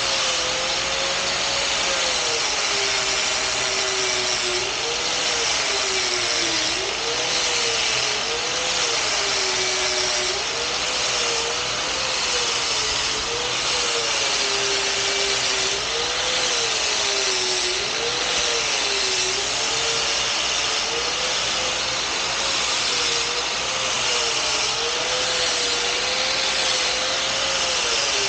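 Steady machine or engine noise at a constant level, with a tone that wavers irregularly up and down.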